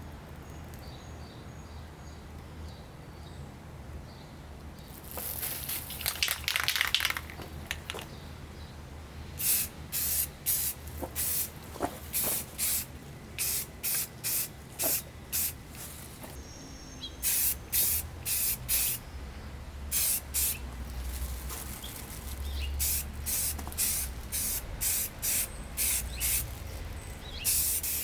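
Aerosol spray-paint can spraying: one longer spray of about two seconds, then a long run of quick hissing bursts, each a fraction of a second, roughly two a second.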